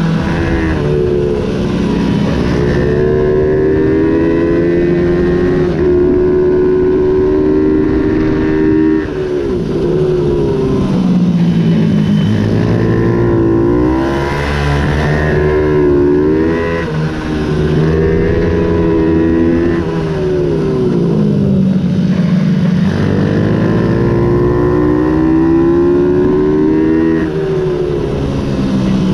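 Ohvale 110 minibike's small single-cylinder four-stroke engine at race speed, its pitch climbing under throttle and dropping back again and again as it goes through gear changes and braking for corners.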